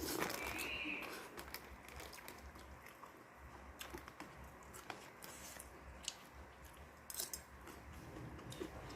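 Close-up eating sounds: chewing, with scattered small clicks and brief crunches.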